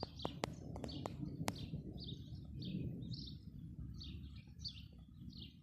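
Small birds chirping in short repeated calls, about one or two a second, over a steady low rumble. A few sharp clicks come in the first second and a half.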